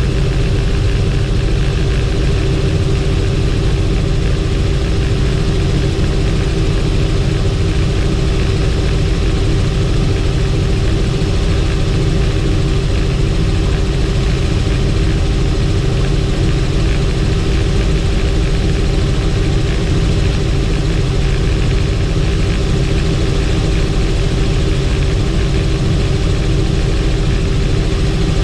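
Helicopter in flight: loud, steady engine and rotor noise with a constant hum.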